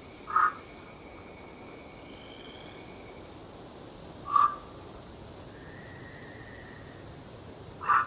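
Forest birds calling: three short, loud calls about four seconds apart, with faint, long, thin whistled notes from other birds between them.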